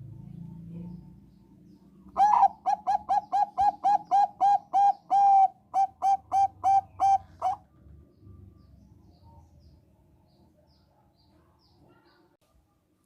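Zebra dove of the Thai 'perkutut bangkok' strain singing a fast run of about sixteen short, clear coo notes, roughly three a second, for about five seconds, starting about two seconds in.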